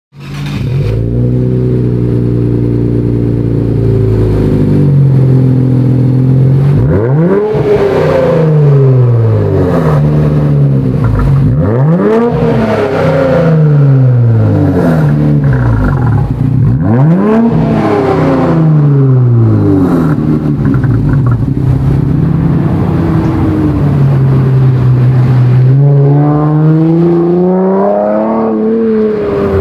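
Car engine heard through a Takeda cat-back exhaust: idling, then blipped three times in quick revs that rise sharply and fall back to idle, then held in a slower, longer rev that climbs for several seconds before dropping near the end.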